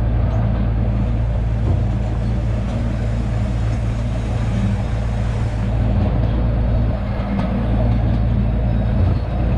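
Miniature riding train running along its track, heard from one of its cars: a steady low rumble and hum of the train under way.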